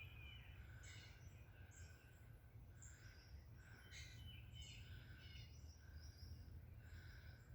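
Faint birdsong: several birds giving short, repeated chirps and whistles, over a low steady background rumble.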